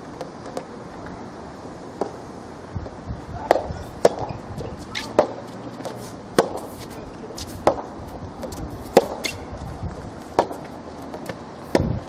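Soft tennis rally: rackets striking the rubber soft tennis ball in turn, sharp hits about every second and a quarter from a little past a third of the way in, with fainter taps between them.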